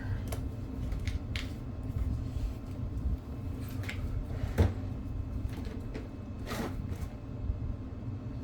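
A few scattered light clicks and knocks, one louder about four and a half seconds in, over a steady low hum.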